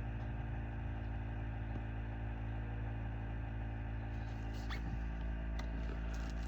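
Steady low background hum, with a couple of faint clicks about two-thirds of the way through.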